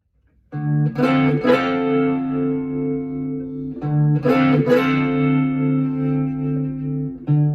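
Electric blues guitar intro, a repeated phrase of held notes that starts about half a second in and begins again about every three and a half seconds.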